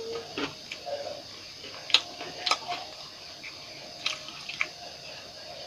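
Mouth sounds of eating boiled bamboo shoots: a handful of scattered, sharp, wet clicks of chewing and lip smacking over a low steady hiss.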